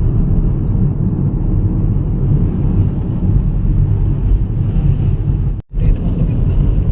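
Steady low rumble of a Honda i-VTEC car under way on the road, with a brief dropout about five and a half seconds in.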